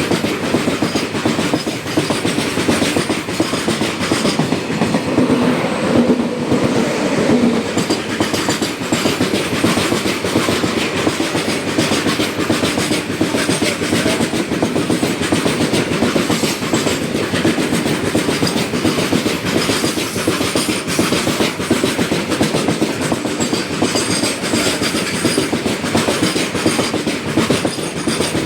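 Railway wagons passing close by, wheels clattering steadily over the rail joints in a fast, continuous clickety-clack.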